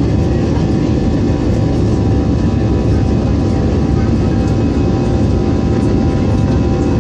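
Airbus airliner's jet engines heard from inside the cabin: a loud, steady low rumble with a few steady whining tones above it.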